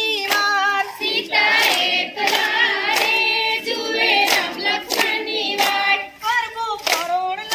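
Several voices singing a Gujarati garba song together, with sharp hand claps keeping time about once every second.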